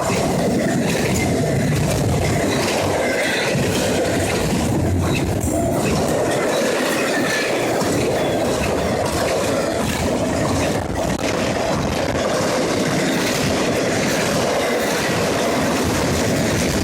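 CSX intermodal freight train rolling past close by: steady, loud wheel-on-rail noise with the clickety-clack of wheels over rail joints and a faint wheel squeal.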